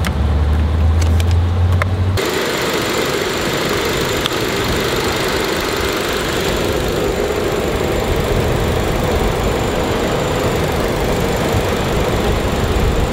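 Car engine idling. For about the first two seconds it is a low hum heard inside the cabin; then, from the open engine bay, it turns to a steady rushing noise with the electric radiator cooling fan running, which here comes on because the air conditioning is on.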